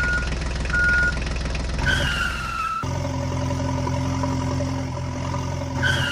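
Vehicle sound effects: a heavy engine running under two short reversing beeps in the first second, then a short falling tone about two seconds in. From about three seconds a different engine hums steadily at a constant pitch, with the falling tone again near the end.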